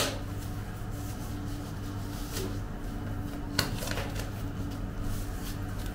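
Small handling noises in a kitchen: a few sharp clicks and light knocks of objects being moved, the clearest one about three and a half seconds in, over a steady low hum.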